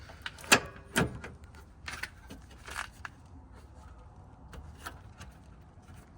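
Scattered knocks and clicks with light rustling as a tape-wrapped engine wiring harness is handled and tucked into place, the two loudest knocks about half a second and a second in.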